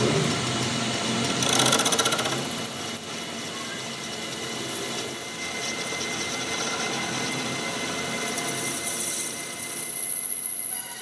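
A power tool running with a steady high-pitched whine. It starts about a second and a half in and cuts off suddenly at the end.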